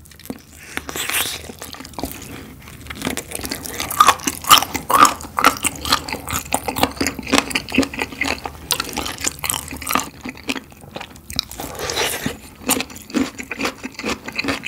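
Close-miked chewing of crispy, sauced spicy fried chicken: crunchy bites and steady chewing, about two chews a second. Near the end comes a crunchier bite of a pickled radish cube.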